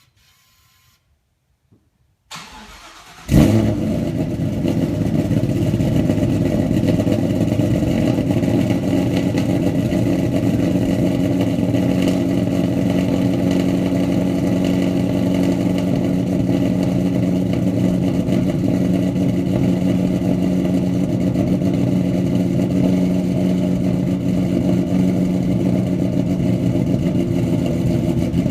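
Cold start of a 2014 Shelby GT500's supercharged 5.8-litre V8, fitted with aftermarket cams, Kooks long-tube headers and an off-road X-pipe. It cranks briefly and fires a little over three seconds in with a loud burst, then settles into a steady, loud idle.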